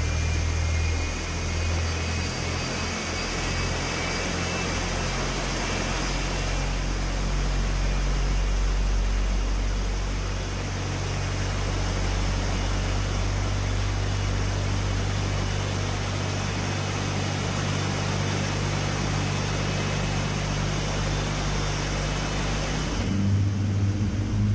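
GE9X turbofan engine starting up: a high whine rises slowly in pitch as the engine spools up, over a steady roar and low hum. Near the end the low tones change and the sound grows a little louder.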